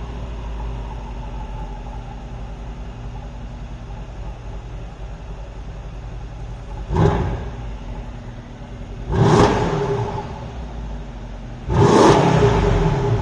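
Mercedes-AMG S63's 5.5-litre twin-turbo V8 idling, then revved three times. The first blip is short, and the next two are held longer, each rising in pitch and falling back to idle.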